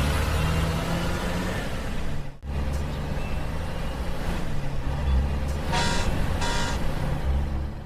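Truck engine sound, laid over stop-motion animation of a toy winter service truck, running with a steady low rumble and briefly cutting out about two and a half seconds in. Two short beeps come about six seconds in.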